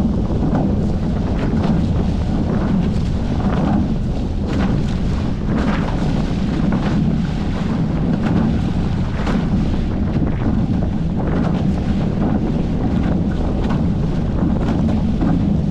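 Wind buffeting the microphone over the steady rush of water along a Hobie 14 catamaran's hulls under sail, with frequent short splashes.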